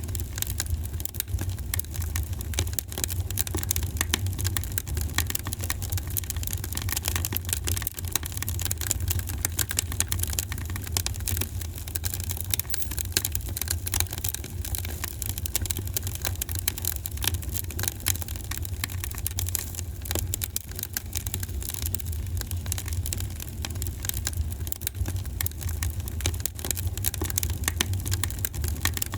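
Fire in a fireplace crackling: dense, irregular small pops and snaps over a low, even rumble.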